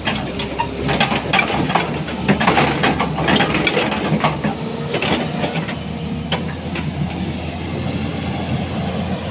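Hitachi 200 tracked excavator's diesel engine running steadily while its tracks and bucket work over rock, with many sharp metal-on-rock clanks and scrapes, thickest in the first six seconds and fewer near the end.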